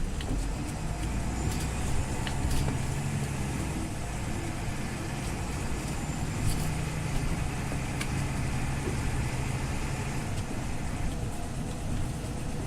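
Scania OmniLink CL94UB city bus engine running with a steady low hum, with a few short clicks and rattles.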